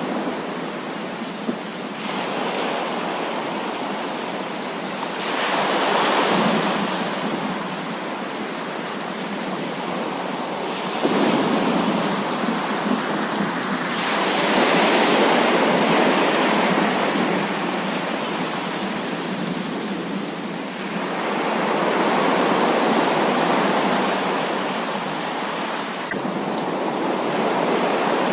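Heavy rain falling steadily, with slow rolls of thunder swelling up and fading away three or four times.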